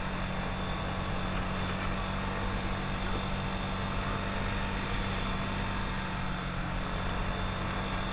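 ATV engine running at a steady speed, an even drone that holds one pitch without revving up or down.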